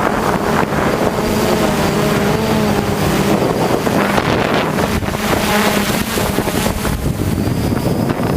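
Hexacopter's electric motors and propellers whirring, their pitch wavering up and down as the craft holds against gusts, with wind buffeting the microphone.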